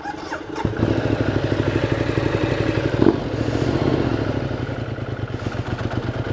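Motorcycle engine starting less than a second in and settling into a steady, throbbing idle.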